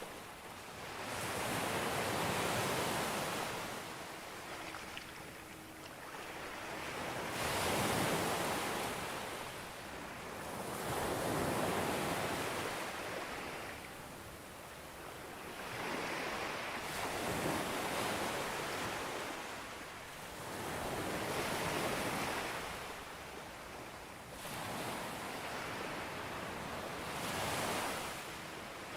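Waves breaking on a beach, one after another. The surf swells and falls back about six times, every four to six seconds.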